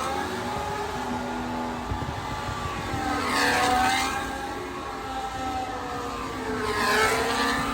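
A car engine running, swelling in loudness twice: about three seconds in and again near the end.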